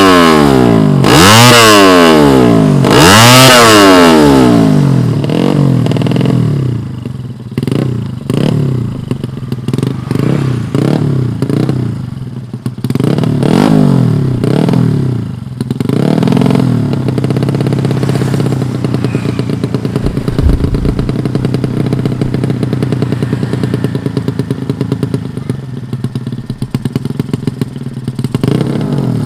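A 115cc motorcycle drag-racing engine being revved hard in repeated rises and falls of pitch, then a run of quicker throttle blips. It settles to a steady idle for about ten seconds before revving again at the end.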